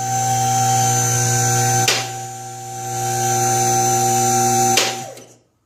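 Electric motor of a vehicle lift's hydraulic pump running with a steady hum, broken by a click about two seconds in, and shutting off with a click near the end.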